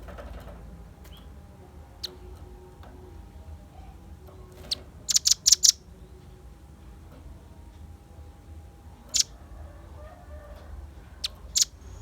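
Velvet-fronted nuthatch calling in sharp, high chipping notes: single notes about two and nine seconds in, a quick run of four about five seconds in, and a pair near the end, over a low hum.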